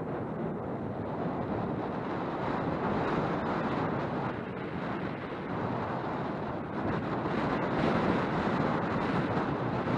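Wind rushing over the microphone of a helmet-mounted camera while riding a mountain bike on a trail, a steady noise that swells a little now and then.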